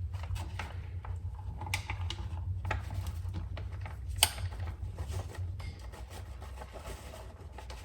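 Kitchen handling noises while pancake batter is being made from a mix with milk: light clicks and scrapes of utensils and containers, with a few sharper clicks, the loudest about four seconds in. A steady low hum runs underneath.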